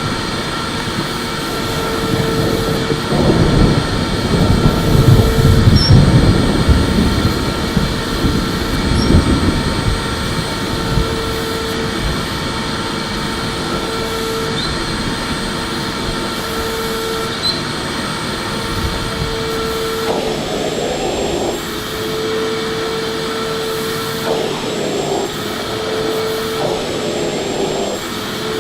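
Electric vacuum cleaner running continuously with a steady whine. A louder, rougher rush of air comes from about three to ten seconds in.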